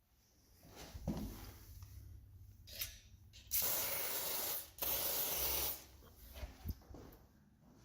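Aerosol can of garage door lubricant sprayed through its nozzle onto the door's joints: two hissing bursts of about a second each, back to back a little after three seconds in, with a shorter spray just before and light rubbing and handling noise around them.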